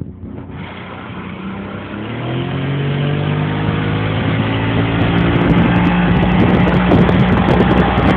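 Boat motor revving up as the boat gets under way: its pitch rises over a couple of seconds, then holds steady at speed. Rushing water and wind noise grow louder, with wind buffeting the microphone in the second half.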